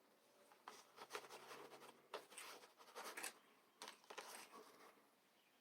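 Faint rustling and scraping of small items being handled and pushed into place, in several short bouts over a few seconds.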